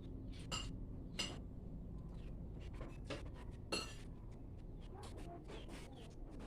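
Cutlery clinking against dishes during a meal: a scatter of short, sharp clinks, the clearest about half a second, a little over a second and nearly four seconds in, over a steady low background hum.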